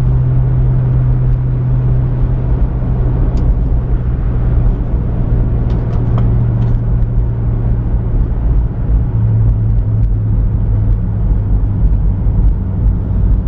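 Pontiac Firebird cruising at a steady speed, its engine droning low under a haze of road noise inside the cabin. The drone settles a little lower in pitch about nine seconds in.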